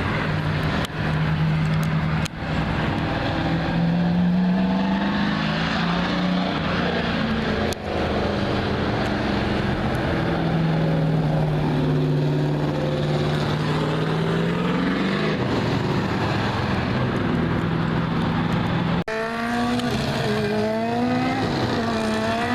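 Race car engines running as a pack of cars circles an oval track at low speed, warming up the track, the engine pitch drifting up and down as cars go by. About nineteen seconds in the sound changes abruptly and the engines rise and fall more quickly, as if revving.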